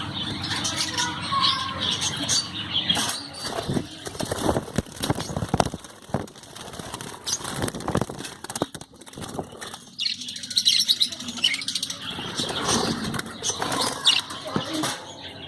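Caged budgies and lovebirds fluttering and chirping, with many short flurries of wing flapping.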